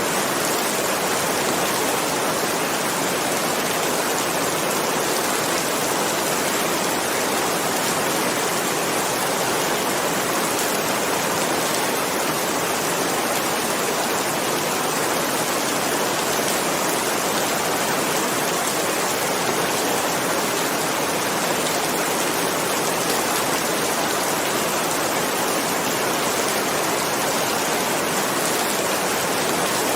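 Heavy rain falling steadily, an even dense hiss with no thunderclaps.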